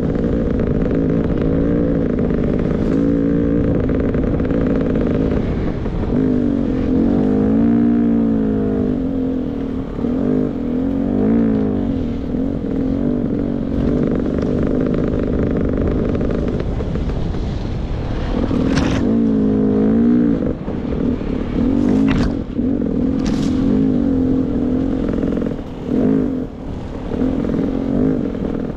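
Beta 300 RR two-stroke enduro dirt bike engine riding a trail, revving up and falling back again and again as the throttle is worked. A few sharp knocks come in the second half, about 19, 22 and 23 seconds in.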